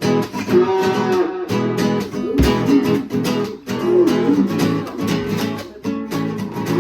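Strummed acoustic guitar music, starting suddenly and running on with a steady rhythm of strokes.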